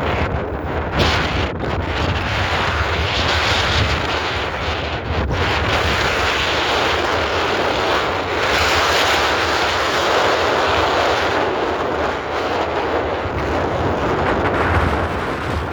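Strong wind on a hilltop buffeting the microphone: a low rumble under a loud, steady rushing hiss that swells and eases slightly.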